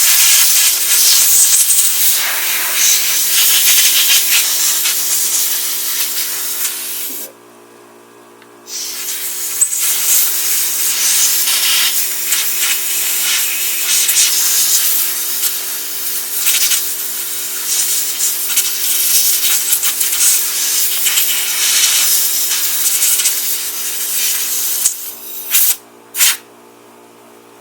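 Compressed air hissing from an air blow nozzle as it blasts packed sawdust out of a chainsaw's sprocket and chain area. Long blasts stop for about a second and a half about 7 s in, then resume, ending with two short bursts near the end.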